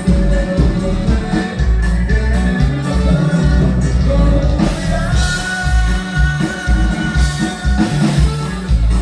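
Norteño band music with a singer over a heavy, pulsing bass; about halfway through a long held melody note comes in above the band.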